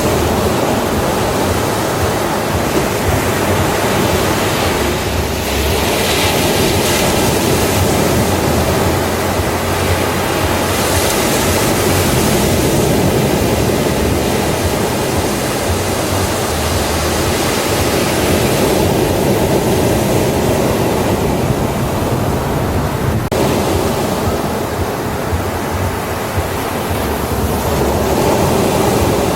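Ocean surf breaking on a beach: a continuous rush of water that swells and eases as waves come in, with brighter hissing surges a few seconds apart.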